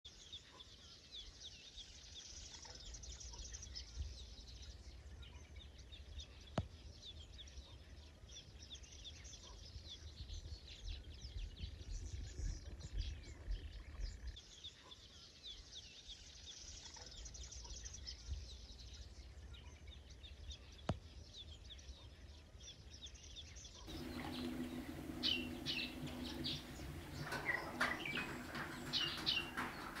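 Small birds chirping and singing, many short high calls overlapping, over a low wind rumble. About 24 s in the sound changes abruptly to closer, louder chirping calls over a steady low hum.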